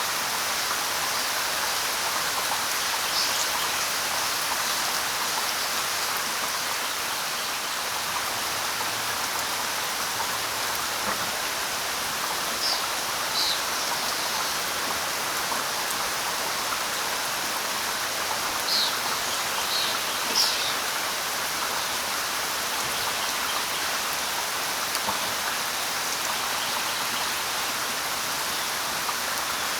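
Steady light rain falling on leaves, with a few brief high bird chirps, most of them around the middle.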